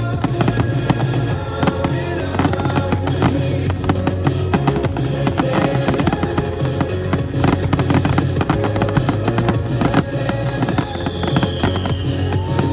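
Fireworks display going off in a dense, continuous string of bangs and crackles, many per second, over music with a steady beat.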